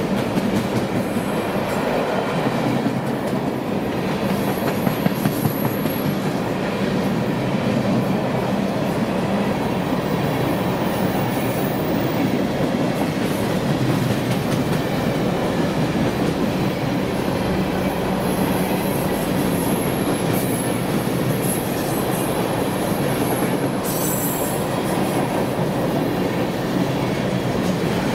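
Freight train rolling past: a steady, loud rumble of railcar wheels on the rails, with thin high-pitched wheel squeals several times, the longest in the second half.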